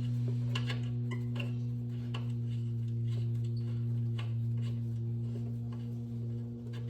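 Faint, irregular clicks and taps of a wrench and an oxygen sensor being worked loose from a Mini Cooper's exhaust, over a steady low hum.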